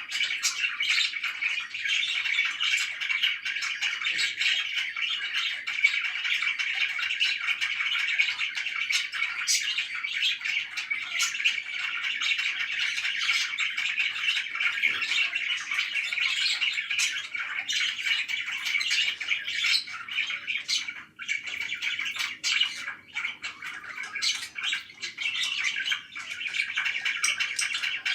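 Pet parakeets chirping and chattering, with a dense run of short, high, overlapping chirps and the odd squawk, dipping briefly about two-thirds of the way through.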